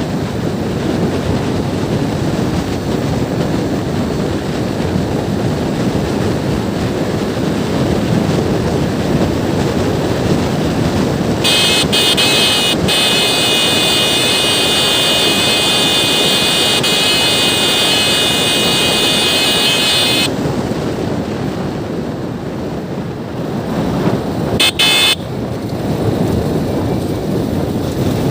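Wind rushing over the microphone with road and engine noise during a motorbike ride. A steady, high-pitched tone with several pitches sounds for about nine seconds in the middle, and a brief one comes near the end.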